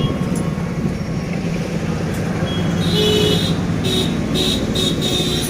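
Steady rumble of passing road traffic. From about halfway through, a vehicle horn sounds in several short toots.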